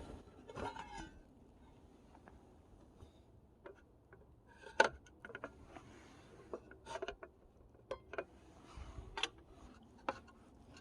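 Camp cookware and utensils handled: scattered light clicks, knocks and clinks, the sharpest about halfway through.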